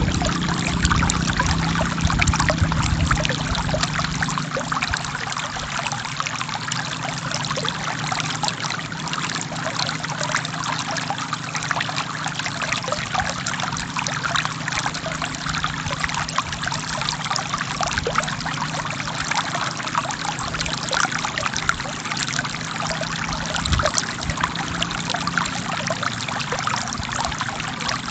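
Forest stream flowing over rocks: a steady rush of splashing, trickling water.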